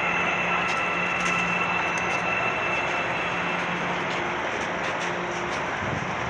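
Metro train running through the station: a steady rush of wheel and motor noise with a high steady whine that fades out about halfway through.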